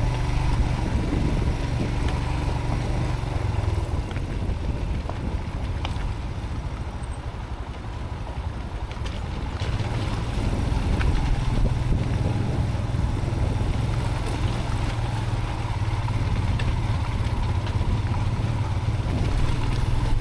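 Motorcycle riding a rough dirt track, the engine running steadily under wind noise on a chin-mounted helmet camera, with a few light knocks from the surface. The engine eases off around a third of the way in and picks up again soon after.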